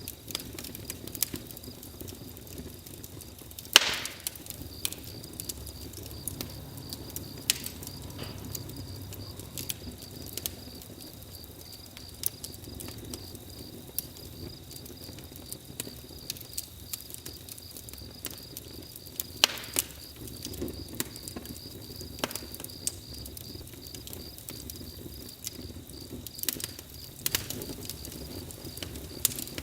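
Campfire crackling: wood burning with irregular sharp pops and snaps, a few louder ones, over a soft steady rumble. A faint steady high chirring, like crickets, runs underneath.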